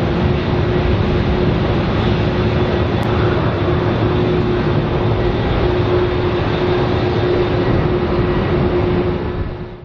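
Airbus A330-343's Rolls-Royce Trent 700 jet engines on departure: a steady jet roar with a held tone running through it, fading out near the end.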